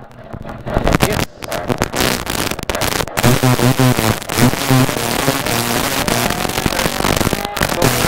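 Rally car's engine, heard from inside the cabin, revved and held high while the car sits on the start line, the revs rising and falling, with rapid crackling and popping over it.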